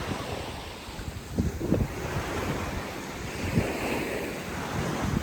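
Wind buffeting the microphone over the wash of sea waves, with louder gusts about a second and a half and three and a half seconds in.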